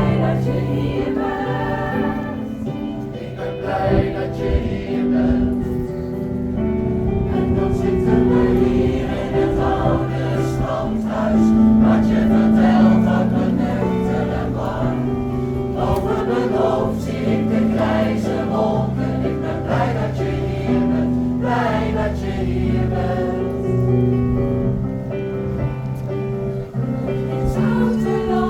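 Pop choir singing long held chords in close harmony, the chords shifting every second or two, over musical accompaniment.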